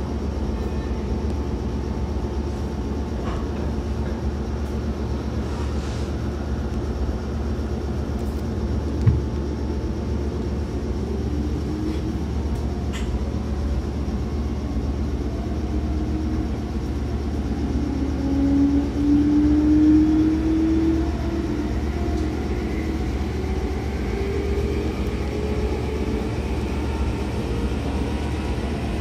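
Meitetsu 5000 series electric train running, heard from inside the car: a steady rumble from the wheels on the track, with a whine that rises slowly in pitch from about ten seconds in as the train picks up speed. A single sharp knock comes about nine seconds in.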